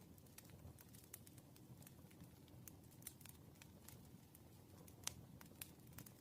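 Faint, irregular light clicks and taps of a pen on paper and a desk during written problem solving, several each second with a slightly louder tap about five seconds in, over a low room hum.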